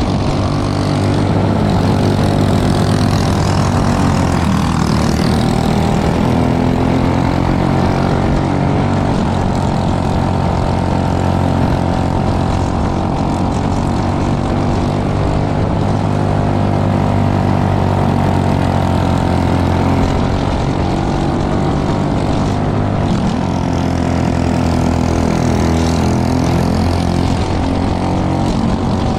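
Briggs & Stratton LO206 single-cylinder four-stroke racing kart engine running hard through a heat race. Its pitch rises and falls gently as the kart speeds up on the straights and lifts off for the corners.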